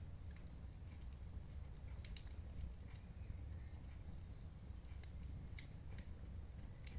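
Wood fire in a fireplace crackling: irregular sharp pops, a few in a few seconds, over a steady low rumble.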